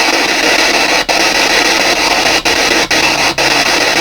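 P-SB7 spirit box sweeping through radio frequencies: steady loud radio static, cut by brief dropouts four times at uneven intervals, with a faint low hum near the end.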